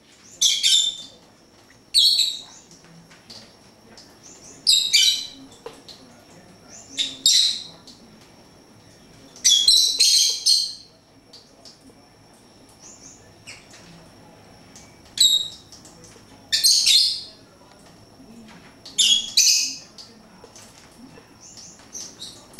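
Pet birds giving short, high-pitched chirping calls about every two to three seconds, with a longer burst of calling about ten seconds in.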